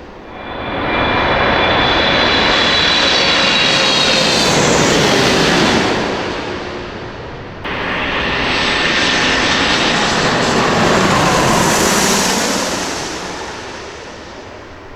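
Two jet airliners passing low overhead in turn, each a loud engine noise that swells and fades, the first with a high whine from the engines. The second pass starts abruptly about halfway through.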